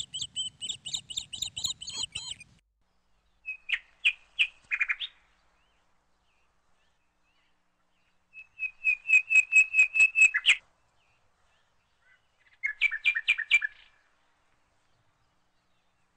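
Bird song: four short phrases, each a quick run of repeated high whistled notes at several notes a second, separated by pauses of a few seconds.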